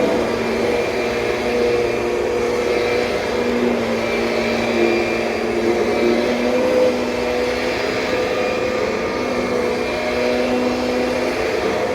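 Kirby Sentria upright vacuum cleaner running steadily: a continuous motor hum over airflow hiss, its pitch wavering slightly.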